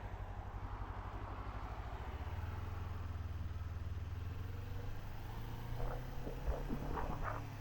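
Kawasaki Z400 parallel-twin engine running at low speed with an even low pulse, turning smoother about two seconds in. A few short clicks near the end.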